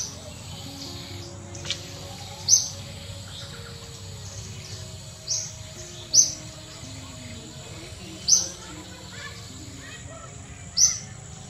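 A bird chirping: single short, high-pitched chirps repeat every couple of seconds over a steady background hum.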